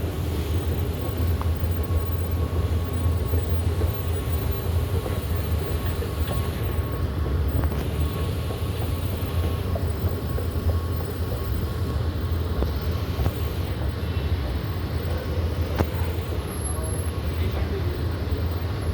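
Dubai Metro train running with a steady low rumble and a thin, steady whine above it.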